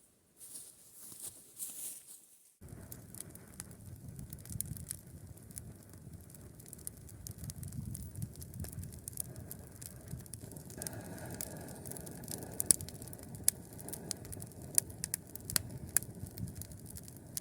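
Wood fire crackling in a mangal: a steady low rush with many irregular sharp snaps.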